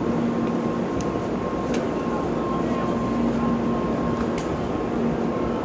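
Shinkansen train pulling into the platform: a steady rushing running noise with a low hum and a higher whine held level, and a few faint clicks.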